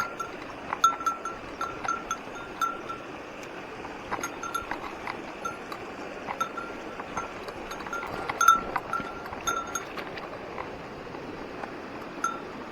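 Small bear bell ringing in short, irregular clinks, a dozen or more strikes, over the steady rush of a mountain stream.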